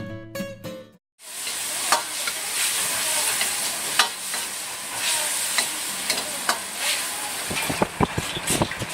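Food sizzling as it is stir-fried in a hot pan: a steady hiss with sharp metal clinks of a utensil against the pan, coming quicker near the end. Guitar music fades out in the first second before it.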